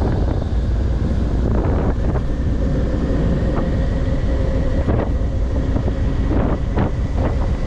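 Honda VTX1800 V-twin motorcycle with Vance & Hines aftermarket pipes running at road speed, mixed with heavy wind buffeting on the microphone.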